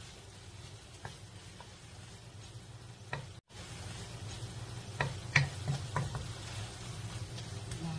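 Shrimp sizzling in garlic butter in a nonstick wok while a wooden spatula stirs them, knocking and scraping against the pan several times, mostly in the second half. The sound cuts out for an instant a little past three seconds in.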